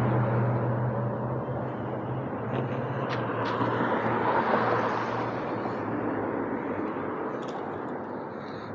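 A vehicle passing by: its steady noise swells to a peak about halfway through, then slowly fades as it goes away.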